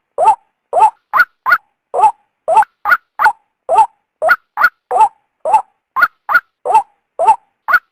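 Female white-breasted waterhen calling: loud, short notes at about three a second, alternating between a higher and a lower, upward-bending note. It is the female call that trappers use as a lure to draw the males out.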